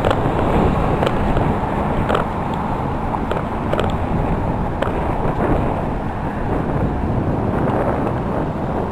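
Steady highway traffic noise with wind buffeting the microphone, and a few light clicks along the way.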